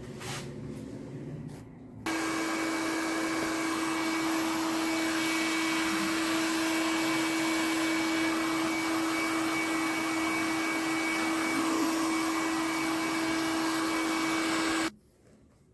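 An electric motor-driven machine switched on about two seconds in, running steadily with a constant hum and a rushing blower-like noise, then switched off suddenly near the end.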